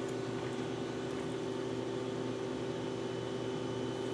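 Steady machine hum with a few constant low tones over a faint hiss, unchanging throughout.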